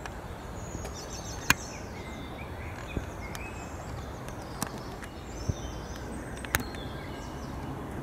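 Small songbirds chirping in short high calls over steady background noise, with a few sharp clicks about every second and a half.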